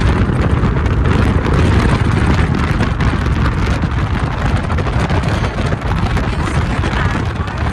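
Steady road and wind noise of a car driving, a continuous low rumble with wind buffeting the microphone.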